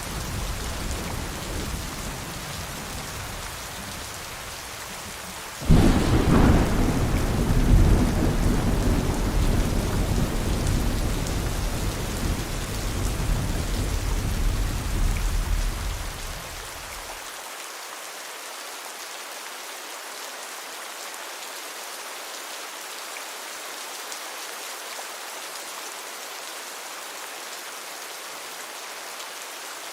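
Steady rain with thunder. A soft low rumble comes in the first few seconds, then a sudden thunderclap about six seconds in rolls on for about ten seconds and fades away, leaving only the hiss of the rain.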